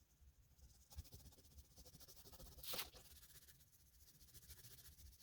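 Faint scratching of an oil pastel being stroked across paper, with one louder stroke a little before the middle.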